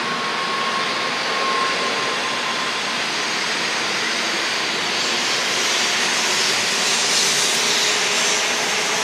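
Shinkansen train running at speed: a steady rushing noise, with a brighter hiss from about five seconds in until near the end.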